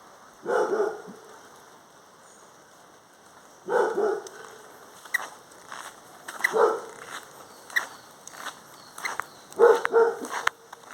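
A dog barking: four short barks a few seconds apart, with light clicks and taps in between.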